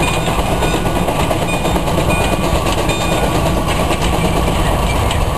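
Russell steam traction engine working under load pulling a plow, its exhaust chuffing steadily from the smokestack.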